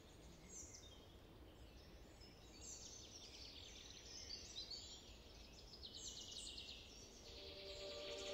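Faint birdsong: repeated high chirps and short trills over a low outdoor hum. Soft music fades in near the end.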